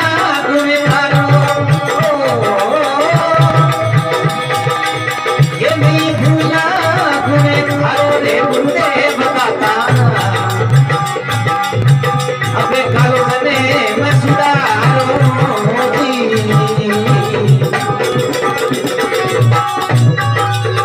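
Instrumental interlude of a Marwari guru vandana devotional song: a lead melody with sliding, ornamented notes over a steady hand-drum beat and a rattling percussion.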